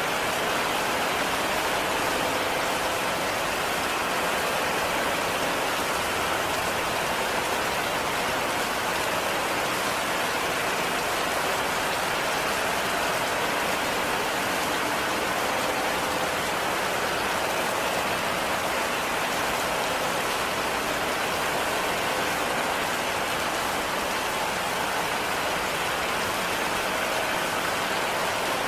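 Heavy rain falling steadily, a dense, even hiss without a break or change.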